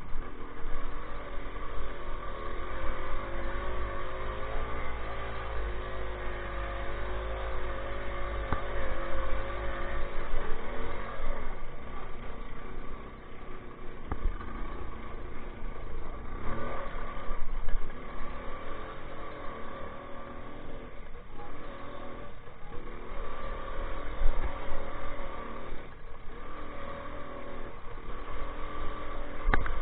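Minsk 125 motorcycle's single-cylinder two-stroke engine running under way, its revs rising and falling unevenly with the throttle.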